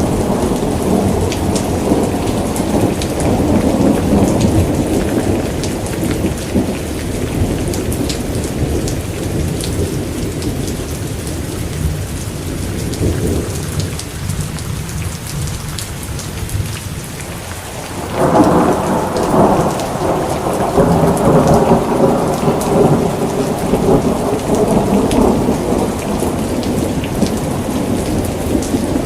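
Heavy, steady rain with rolling thunder. The rumble dies away in the middle, and a new peal breaks in sharply about two-thirds of the way through and rolls on.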